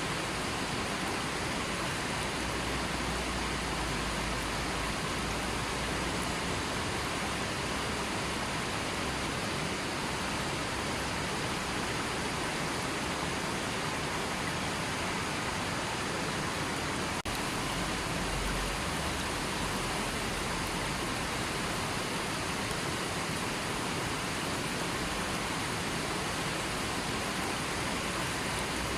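River water flowing: a steady, even rush of running water with no change in level.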